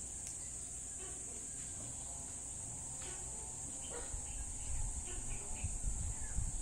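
Steady, unbroken high-pitched insect chorus, with a few faint short chirps. Low rumbling bumps come in during the second half.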